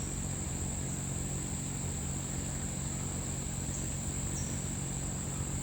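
A steady, unbroken high-pitched insect trill with a low hum underneath.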